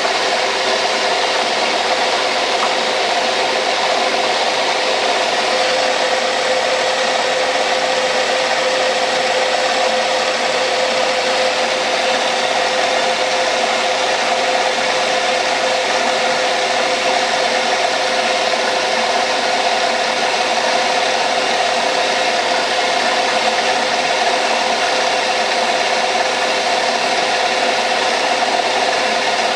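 Metal lathe running steadily through a light finishing pass on a taper, its motor and gearing giving a constant mid-pitched hum over an even hiss.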